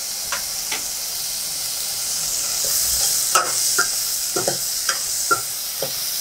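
Shallots, slit green chillies and diced tomato sizzling in oil in a stainless steel pot over a medium flame, while a metal ladle stirs them, scraping and clinking against the pot. The clinks come more often from about three seconds in.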